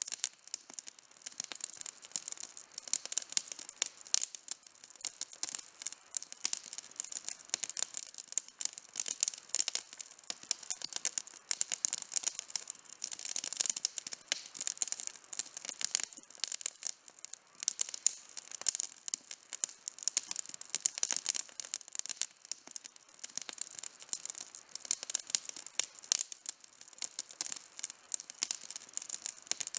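Wood campfire burning with dense, continuous crackling and popping.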